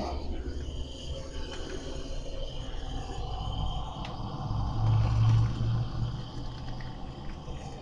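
Small kindling fire burning in a wood-burning fireplace's firebox, preheating the cold stove and flue: a low steady rumble that swells about five seconds in, with a few faint crackles.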